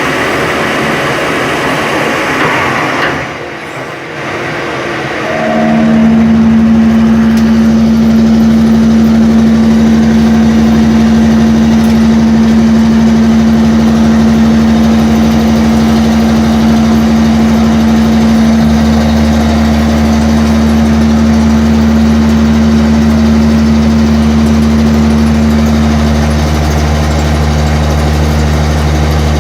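CNC lathe running: a noisier machining sound at first that drops away about three seconds in, then a loud, steady machine hum from about five seconds in, with its low tones shifting about two-thirds of the way through.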